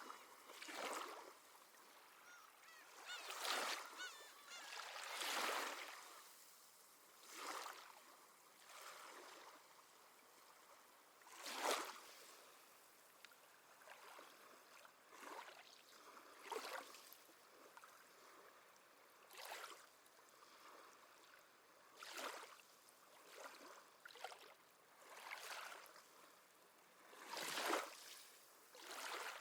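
Seabirds calling in short, repeated honking cries every second or two over the faint, steady wash of gentle sea waves.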